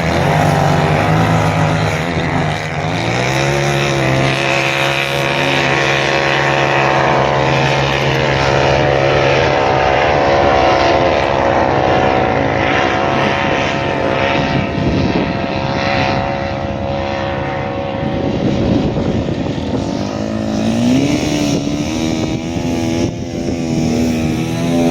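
An off-road vehicle's engine runs loud and steady, its pitch wavering with the throttle and climbing about three seconds in and again near the end.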